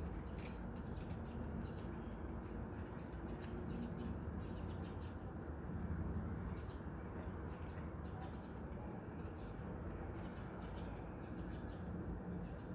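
Birds calling: many short, high calls in quick clusters, repeated throughout over a steady low background noise.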